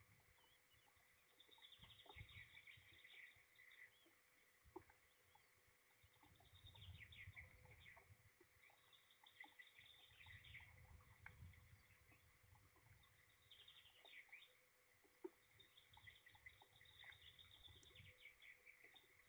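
Faint small-bird chirping in the background, coming in several short bursts of quick notes, over a steady faint hum.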